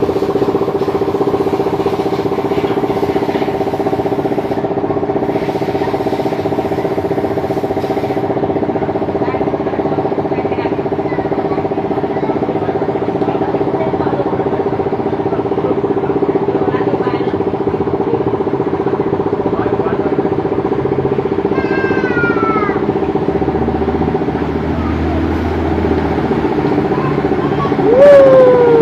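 An engine running at a steady, unchanging speed, with a loud falling whine near the end.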